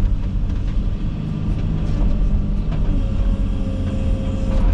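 Komatsu 360 excavator's diesel engine running steadily under working load. A steady whine joins about three seconds in, with a few faint cracks over it.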